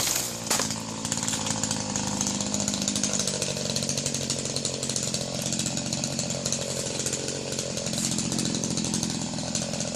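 Tasco TPS 260 chainsaw engine dropping back from a rev and then idling steadily, with one click about half a second in.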